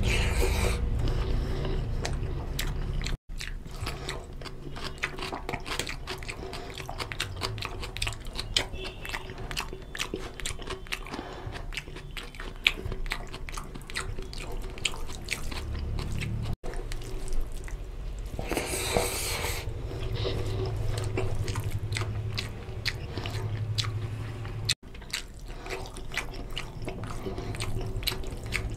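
Close-miked wet chewing and biting: mouth smacks and clicks as a man eats mutton lung curry with rice by hand, with fingers squishing the rice into the curry. The sound drops out for an instant three times.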